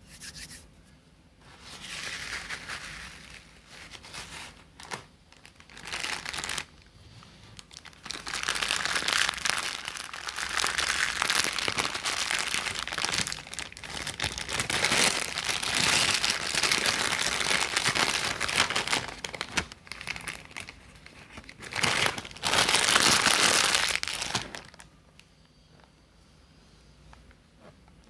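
Close-up crinkling and crumpling noise in bursts: a few short ones at first, then a long stretch of continuous crinkling that stops near the end.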